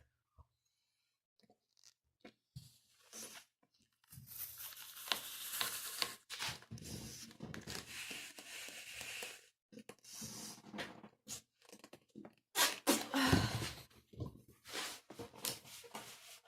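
Long modelling balloon being blown up by mouth and handled: hard breaths rushing into the balloon with the latex rubbing and crinkling. There is one long stretch of blowing and rubbing, then a louder, shorter one near the end.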